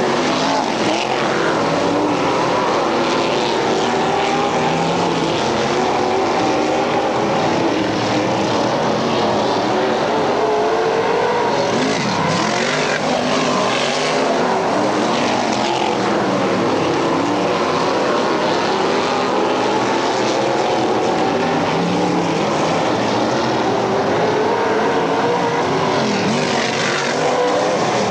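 Several dirt-track race car engines running hard together, their pitches rising and falling as the cars lap, at a steady loud level.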